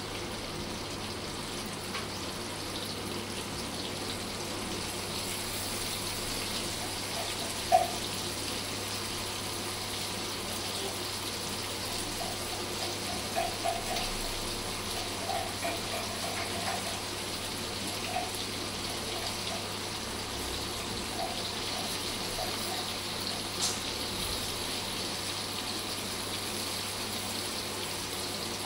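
Prawns sizzling steadily in hot oil on a flat tawa, with a few short, light clinks as the knife turns them over.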